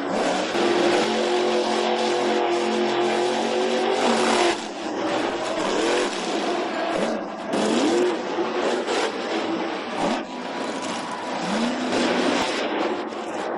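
Monster truck's supercharged V8 engine held at high revs for about four seconds, then revved up in short rising bursts several times.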